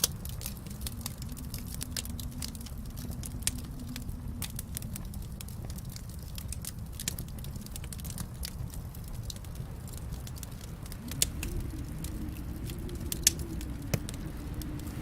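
Fire in a fireplace crackling: scattered sharp pops and snaps over a steady low rumble of the flames, with a few louder pops, the loudest about two seconds before the end.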